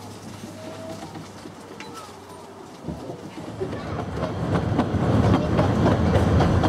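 Narrow-gauge steam train running along the track, heard from one of its carriages. It is fairly quiet at first, with a couple of brief bird chirps. About three to four seconds in, the rolling noise of the wheels on the rails swells into a loud, steady rattle with rapid clicking.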